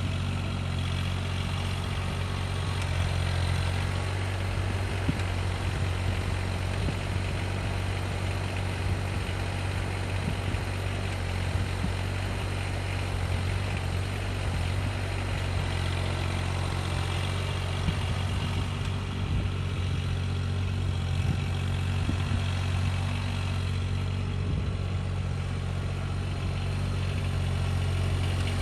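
An engine running steadily at an unchanging speed, with a strong low hum.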